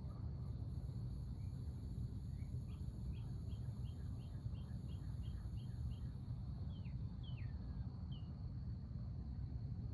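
A songbird calling a run of about a dozen short, evenly spaced chirps, about three a second, then a few falling notes. Underneath is a steady low outdoor rumble and a thin, steady high-pitched tone.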